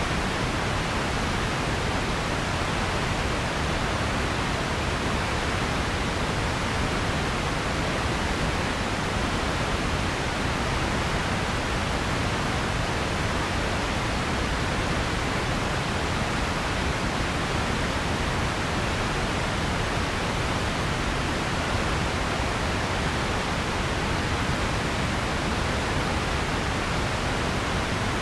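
Steady, unchanging noise: an even hiss with a low rush beneath it, like pink noise, with no events or changes.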